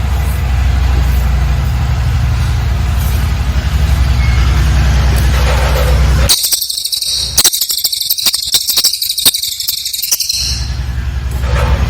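A songbird in a masteran recording delivers a rapid, high-pitched chattering trill for about four seconds, starting about halfway through. Before and after it there is a steady low hum.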